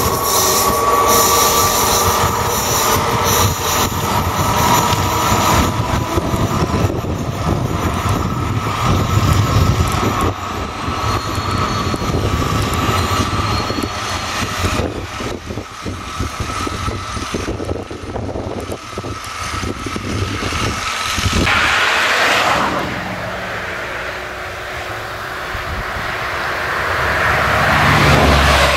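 Double-deck electric passenger trains running through a station on curved track. A high wheel squeal comes first, then the rapid clatter of wheels over rail joints and points, with a loud swell about 22 seconds in as a train goes by.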